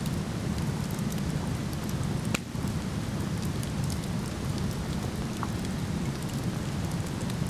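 Steady rushing of a waterfall with a wood fire crackling over it, small scattered pops and one sharper pop a little over two seconds in.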